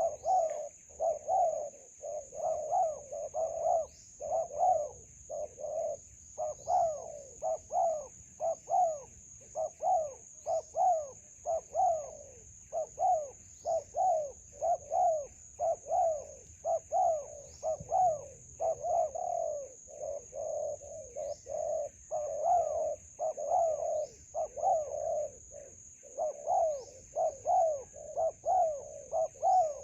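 Spotted doves cooing over and over in quick, overlapping phrases. A steady high-pitched whine runs underneath, with a short falling chirp every couple of seconds.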